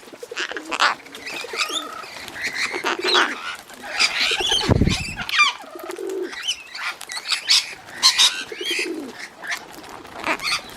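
Pigeons cooing in low notes three times, over a busy chorus of other birds chirping and whistling. There is a brief low rumble just before the middle.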